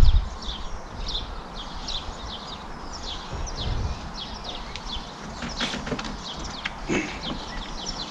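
Small birds chirping over and over in short, quickly falling notes, with a few sharp clicks and taps a little past the middle from work on a wooden shed wall. Some low wind rumble on the microphone.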